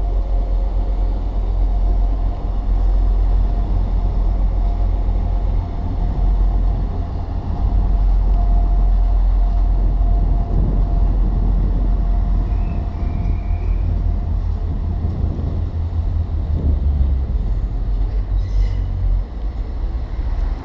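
Diesel passenger train pulling away from the platform and receding, running steadily with a deep low rumble and a faint steady whine; the rumble eases near the end.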